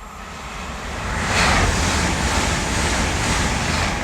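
A Hitachi IET intercity train passing through the station at speed: a steady loud rush of wheel, rail and air noise with a deep rumble under it. It builds over the first second, then holds, with some wind buffeting on the microphone.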